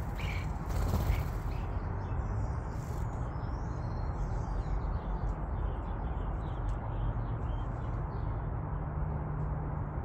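Faint scattered bird chirps over a steady low background rumble, with a few brief sharp sounds in the first second and a half.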